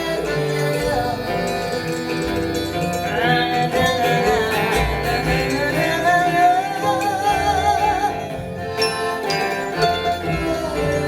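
Live acoustic band playing, with guitars and a wavering melody line above them.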